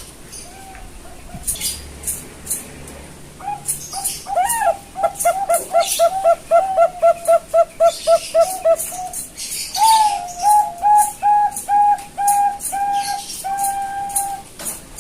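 Young Bangkok zebra dove (perkutut) cooing. A run of quick, evenly spaced staccato notes, about four a second, is followed by a slower series of longer, held notes.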